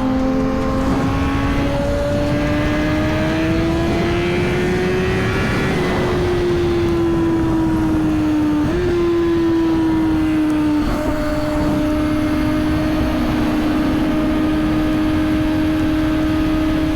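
Suzuki GSX-R1000's inline-four engine running at highway speed under a steady rush of wind noise. Its pitch climbs slowly for about five seconds, eases back, then drops about eleven seconds in and holds steady.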